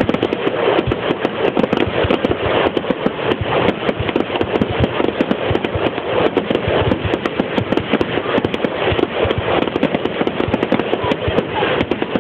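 Aerial fireworks going off in quick succession: a dense, continuous stream of bangs and crackles as shells burst overhead.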